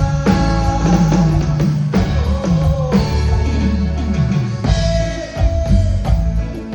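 A live band playing a song, with drum kit, bass line and guitar.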